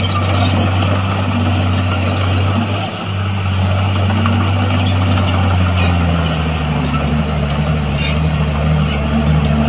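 Heavy diesel earthmoving machinery running steadily with a deep engine hum; the engine note changes about six seconds in.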